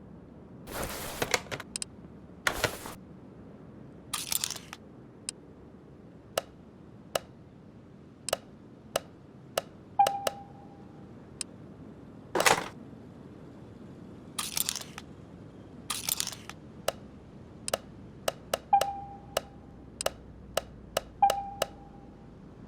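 Metal tools and engine parts being handled: a run of sharp clicks and knocks with a few short scraping rattles. Three of the clinks ring on briefly with a clear metallic tone.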